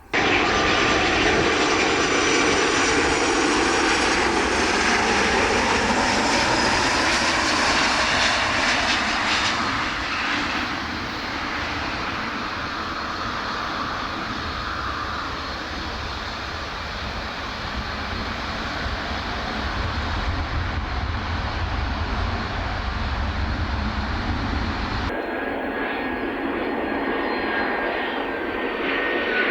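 Jet airliner engines running loud as a plane passes close, with tones that slide down in pitch over the first ten seconds. About 25 seconds in, the sound changes abruptly to a softer rush with a steady high whine.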